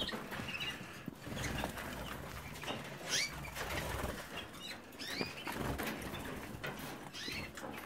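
Young colour canaries in their cages giving several short chirping calls, with wings fluttering.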